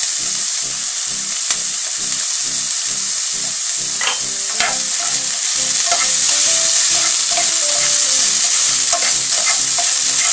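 Chopped onion, garlic and ginger sizzling in hot oil in a pan, stirred with a utensil that clicks and scrapes against the pan now and then. The sizzle grows a little louder about halfway through.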